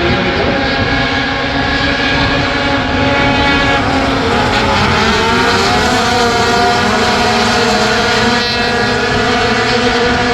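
Engines of a pack of race trucks running hard on a paved oval, several overlapping at once. Their pitch dips and rises about halfway through as they pass.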